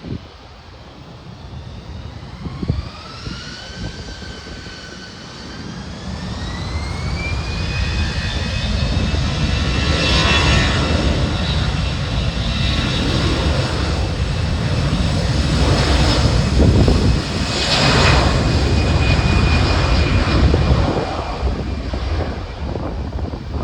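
Jet airliner's engines: a whine that rises in pitch over a few seconds, then holds, over a deep rumble that builds up and stays loud.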